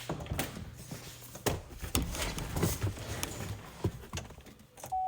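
Someone climbing into a pickup truck's cab: scattered knocks, footfalls and rustling. Near the end the truck's steady warning chime comes on.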